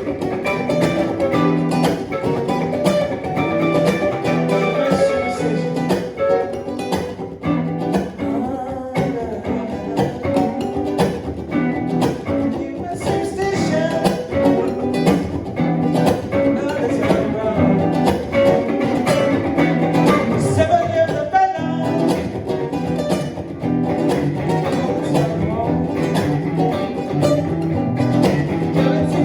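Acoustic and electric guitars played together in an improvised jam, with a steady strummed rhythm under picked melody lines.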